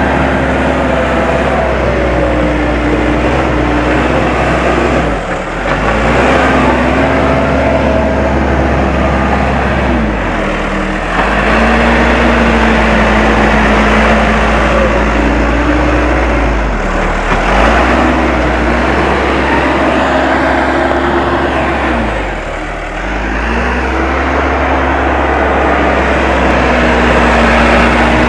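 Case 580M backhoe loader's diesel engine working. It runs loud and steady, and its speed dips briefly and recovers four times, about every five or six seconds.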